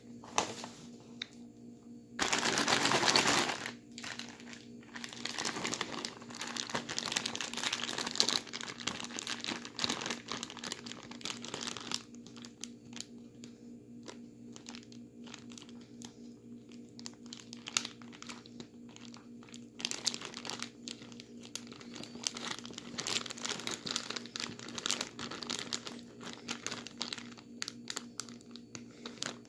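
Plastic bags holding ice, salt and the bagged drink crinkling and rustling as they are shaken and squeezed to freeze the drink into slush. It comes in irregular bursts, loudest about two to three and a half seconds in and quieter in the middle.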